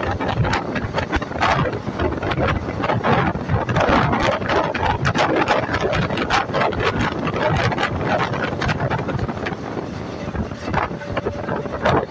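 Indian Railways express train running, heard from aboard: a steady rush of running noise full of irregular clattering knocks from the wheels on the rails, with wind buffeting the microphone.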